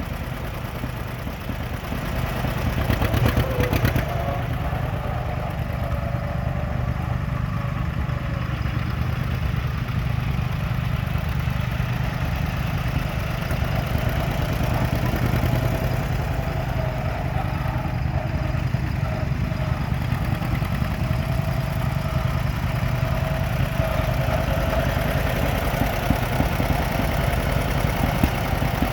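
1953 John Deere 50 tractor's two-cylinder engine idling steadily, getting a little louder about three seconds in.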